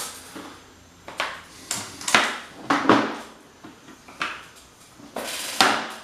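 Metal hand tools clinking and clattering as they are picked up and set down on a workbench: a string of separate knocks, with a longer rattle near the end.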